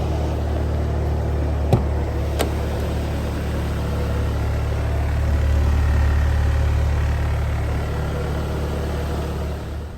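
A 1996 Subaru Sambar truck's small 658 cc four-cylinder engine idling steadily. There are two sharp clicks a little under two seconds in, and a slight rise in level around the middle.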